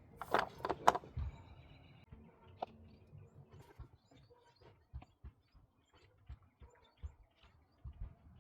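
Faint clicks and taps of the oil filler cap and a plastic oil jug being handled as the remaining motor oil is poured into the engine. A few sharp clicks come in the first second, then scattered quiet taps.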